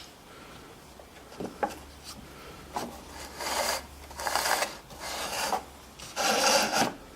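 Wooden jig being handled: a couple of light knocks, then wood scraping against wood in about five short strokes, each about half a second long.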